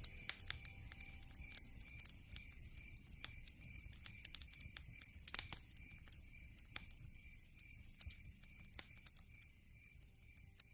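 Faint campfire crackling: irregular sharp pops and snaps of burning wood over a low rumble. Behind it, a steady pulsing high chirp of night insects. It all grows fainter near the end.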